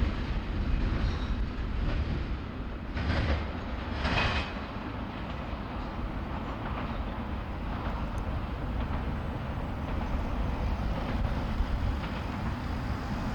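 Freight train rolling by on the rails: a steady rumble of the cars passing, with two short louder rushes of noise about three and four seconds in.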